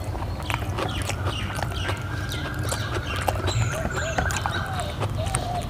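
Close-miked wet chewing and lip-smacking of a mouthful of rice and mutton, a run of small clicks and smacks.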